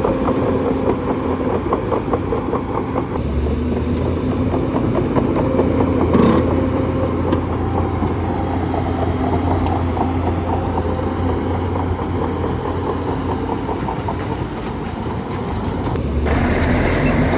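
Bulldozer's diesel engine running steadily, with a deep hum that sets in about three seconds in; the sound shifts near the end.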